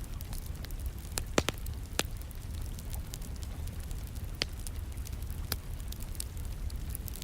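Wood fire crackling, with scattered small snaps and a few louder pops, the loudest about a second and a half in, over a steady background of rain and a low rumble.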